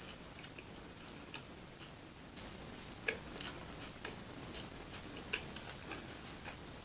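A person chewing food close to the microphone: irregular small wet mouth clicks and smacks, with a sharper one about three seconds in.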